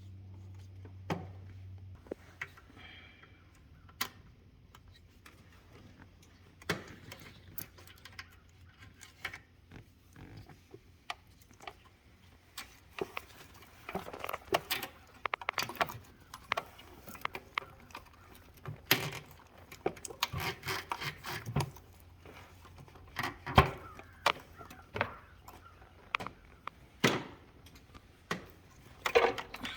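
Irregular metallic clicks, clinks and knocks of hand tools and engine parts being handled during engine disassembly, sparse at first and busier in the second half. A faint low hum stops about two seconds in.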